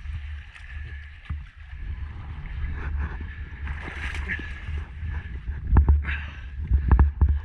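Wind rumbling on the microphone over the sound of water, with a faint steady high tone and a few sharp knocks near the end.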